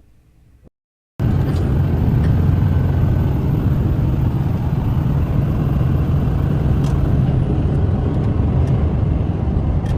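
Steady rumble of road and engine noise from a moving truck, starting suddenly about a second in after a short silence.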